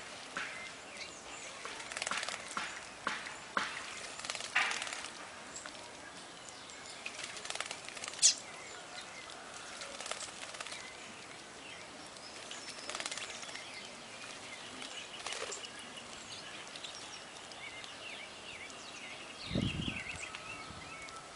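Small wild birds chirping in short, scattered calls over outdoor background noise. A sharp click comes about eight seconds in, and a low thump comes near the end.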